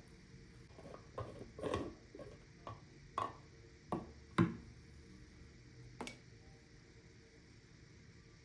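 A string of light knocks and clicks, about nine over the first six seconds with the loudest near the middle, then faint room tone.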